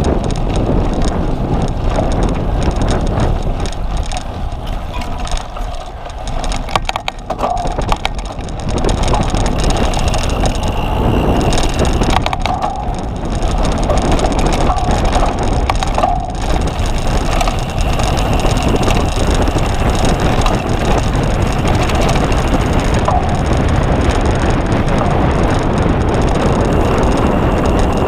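Cyclocross bicycle being ridden in a race: a steady rush of wind and tyre noise with small rattles and clicks from the bike, easing briefly around six seconds in.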